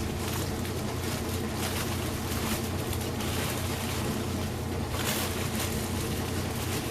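Corona-style grain mill grinding malted grain: a steady mechanical drone with the crunch of grain being crushed, briefly a little louder about five seconds in.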